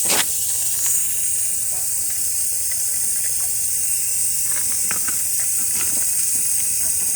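Water hissing steadily as it sprays from an open water service pipe under repair, with a few light knocks of handling on top.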